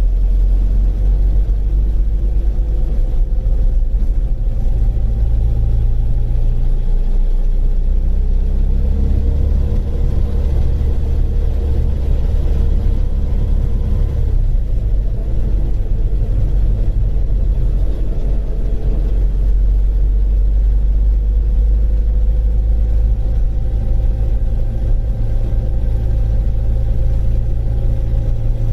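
Rover Mini's A-series four-cylinder engine running under way, with a heavy low rumble; the engine note climbs, drops back twice, about 7 and 14 seconds in, and climbs again.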